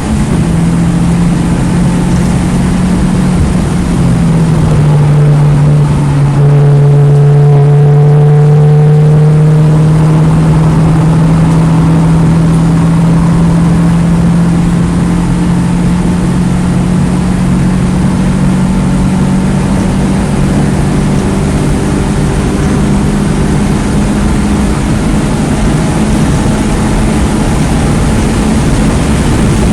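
2009 Mini Cooper S's turbocharged 1.6-litre four-cylinder engine running hard and loud at fairly steady revs, its pitch dropping a step about four seconds in and then holding nearly level, over a steady rush of wind and tyre noise.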